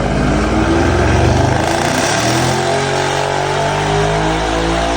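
Stage 2 Plus-tuned Mercedes-AMG E63 S twin-turbo V8 under load, its revs climbing steadily as it accelerates, loud and deep.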